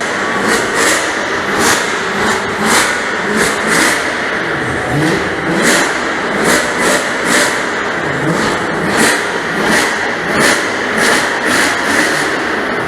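Straight-piped Mercedes C63 AMG V8 revved over and over in short blips, about two a second, the pitch rising and falling with each blip, loud, with sharp cracks.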